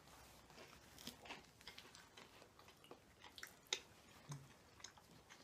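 Faint chewing of garlic bread and spaghetti, with scattered soft clicks and mouth smacks; the sharpest comes about two-thirds of the way through.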